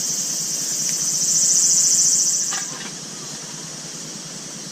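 Insects buzzing in a steady, high-pitched chorus, loud for the first two and a half seconds and then dropping to a fainter drone.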